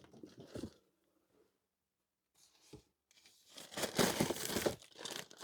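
Packaging being handled and unwrapped: a few soft rustles, a near-silent pause with a single small click, then a burst of crinkling and tearing of wrapping about three and a half seconds in that runs on for over a second, with more rustling near the end.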